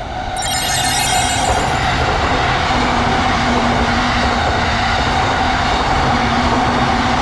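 A train passing over a railroad crossing, its wheels and body noise rising sharply about half a second in with a brief high squeal, then a steady loud rumble and clatter. The crossing's electronic warning bell keeps ringing steadily underneath.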